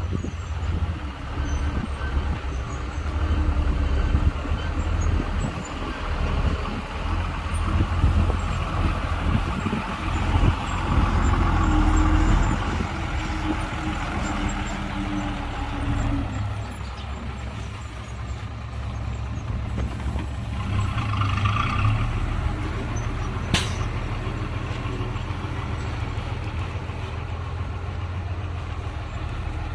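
Heavy diesel dump truck engine running, its level swelling and easing under changing load, with a brief hiss about twenty seconds in and a single sharp click soon after.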